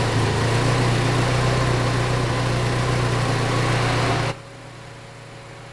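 Saab 90 engine idling steadily on its Stromberg carburettor, with the mixture set too lean. About four seconds in the sound drops away abruptly to a faint hiss.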